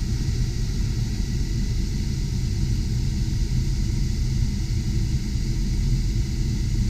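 Cabin blower fan of a 2001 GMC Sierra 3500 HD running steadily, pushing air out of the vents as the heater is switched on, over the low rumble of the idling engine.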